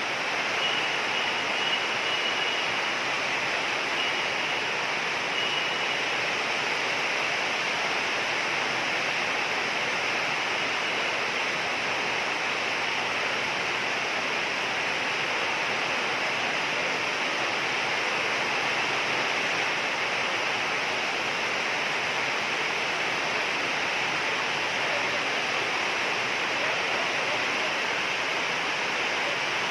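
Heavy rain pouring down steadily as a dense, even hiss, with no breaks or single drops standing out.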